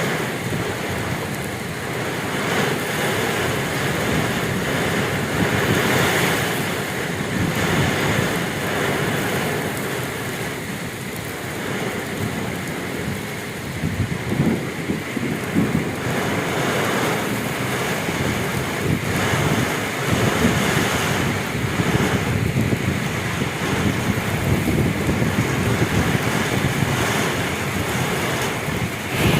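Heavy rain pouring down in a Kalbaisakhi (nor'wester) thunderstorm, with strong wind gusting and buffeting the microphone. The sound swells and eases with the gusts.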